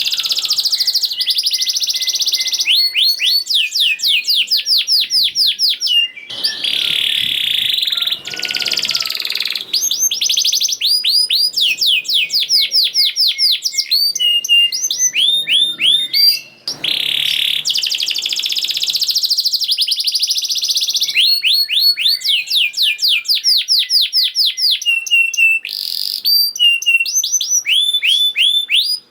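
Domestic canary singing a fast, dense song: long runs of rapid repeated trilled notes and rolls, broken by a few short pauses.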